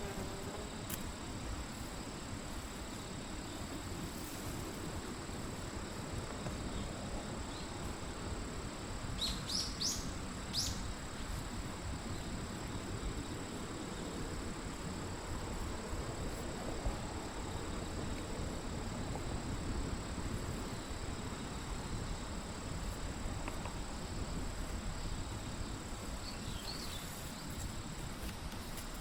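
Countryside ambience: a steady background hiss under a continuous high insect tone, with a few short bird chirps about a third of the way in and a faint one near the end.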